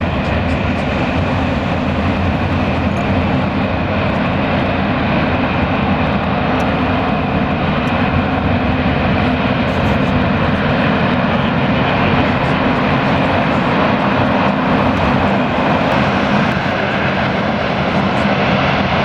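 Qantas Airbus A380 jet engines running with a loud, steady roar and a faint steady whine over it, at full takeoff power.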